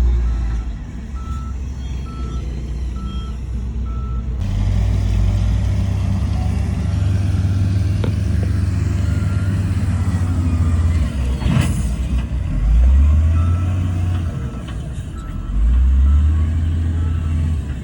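Heavy diesel earthmoving machinery running, with a reversing alarm beeping about once a second for the first few seconds and faintly again later. The engine revs up twice in the second half, and there is one sharp clank near the middle.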